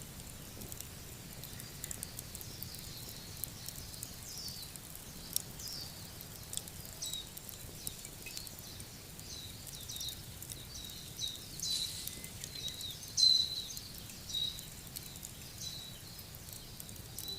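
Small birds chirping over a soft steady outdoor hiss: many short high chirps that glide downward, coming thicker and louder in the second half, with a few faint sharp clicks in between.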